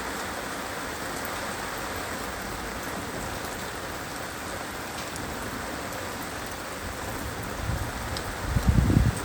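Heavy rain falling steadily on surfaces, with a brief low rumble swelling near the end.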